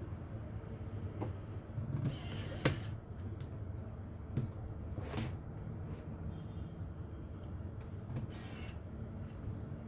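Workbench handling noises: scattered clicks and light knocks, a sharper click between two and three seconds in, and two brief hissing bursts, over a steady low hum.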